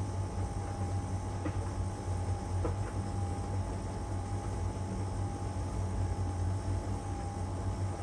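LG heat pump tumble dryer running steadily in its drying phase, with a constant low hum from the drum motor and heat pump and a faint steady whine above it. Two faint ticks come about a second and a half and two and a half seconds in.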